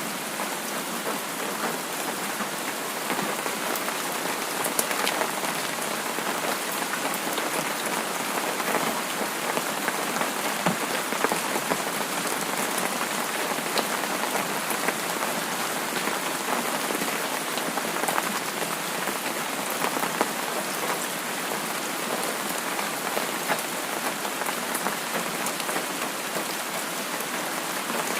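Steady rain falling on a surface, an even hiss with many small drop taps scattered through it.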